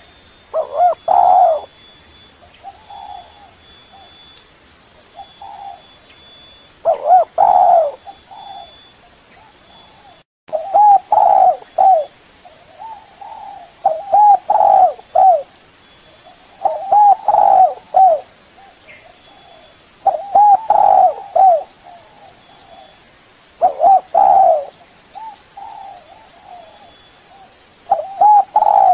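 Spotted dove cooing: a loud phrase of two or three deep coos every three to four seconds, with softer coos in between.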